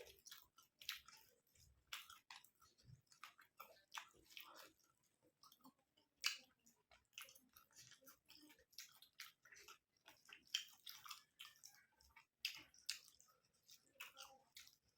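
Close-up mouth sounds of eating rice with curry: irregular, quick wet clicks and smacks of chewing, with no speech.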